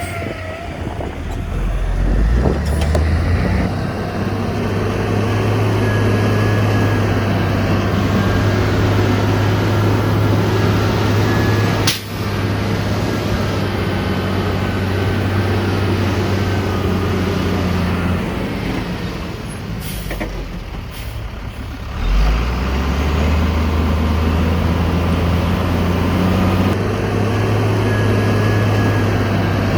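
Heavy diesel engine of earthmoving machinery running under steady load. It eases off for a few seconds in the second half, then revs back up, with a sharp click about twelve seconds in.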